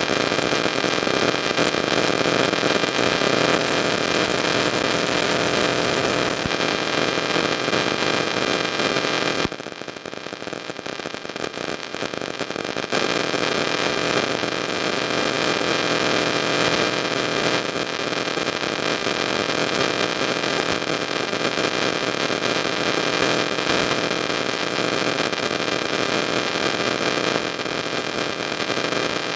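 Steady loud static-like hiss with a hum of several steady tones running through it, dropping quieter for about three seconds around ten seconds in.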